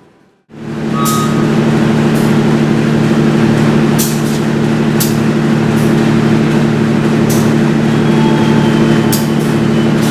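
A train running close by: a loud, steady low hum with scattered sharp clicks. It starts abruptly about half a second in.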